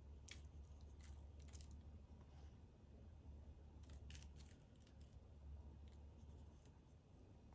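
Near silence with a low hum and a few faint, short clicks or rustles, in two clusters: one in the first two seconds and another about four seconds in.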